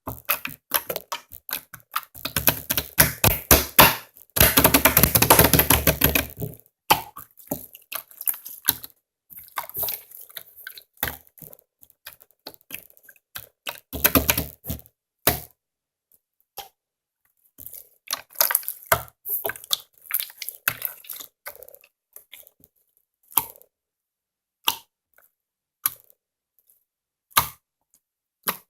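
Slime being squeezed and stretched by hand, making irregular sticky clicks and pops. There is a longer, dense stretch of crackling about four seconds in, and a shorter one around fourteen seconds.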